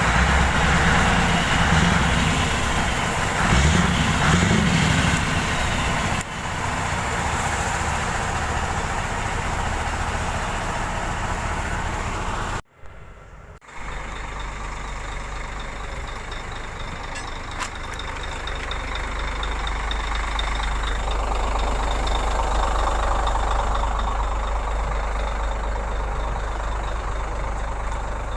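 Scania R580 truck's V8 diesel engine running, louder and uneven for the first few seconds. Around the middle the sound cuts out for about a second, then the engine settles into a steady low running.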